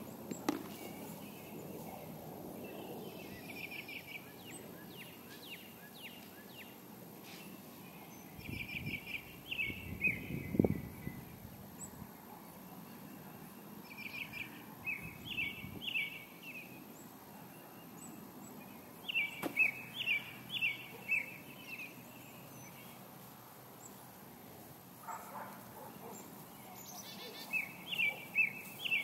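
A songbird singing short phrases of rapid high notes, repeated every few seconds, over faint steady outdoor background noise.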